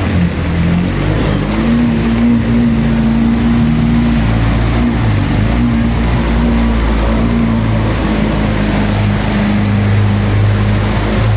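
An engine running steadily, with a low hum that shifts a little in pitch, under a constant wash of rushing water or rain.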